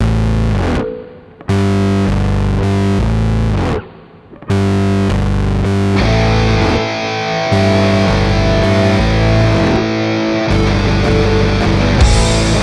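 Intro music: a distorted electric guitar playing chords, breaking off briefly twice in the first five seconds, then playing on without a break.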